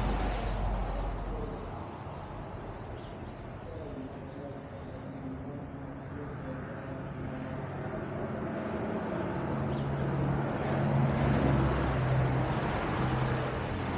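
A motor vehicle engine running, louder about ten seconds in and easing a little near the end.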